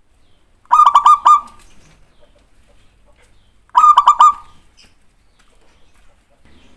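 Zebra dove (perkutut) calling: two phrases of about four quick, clipped cooing notes each, the first about a second in and the second about three seconds later.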